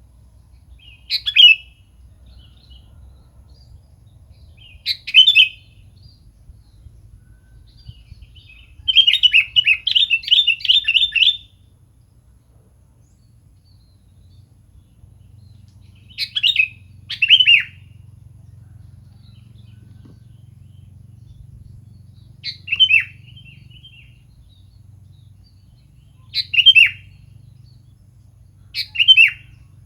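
Sooty-headed bulbul (kutilang) giving short, sharp calls every few seconds. About nine seconds in there is a longer run of rapid chattering notes, and two calls come close together around seventeen seconds.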